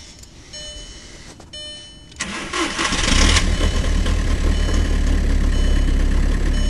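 2004 VW Jetta TDI's 1.9-litre BEW four-cylinder turbodiesel cold-starting at about 30 °F: about two seconds in the starter cranks briefly, the engine catches within a second and settles into a steady diesel idle.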